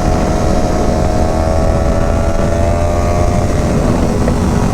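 Motorcycle engine running steadily under way, with heavy low rumble of wind and road noise on the rider's microphone.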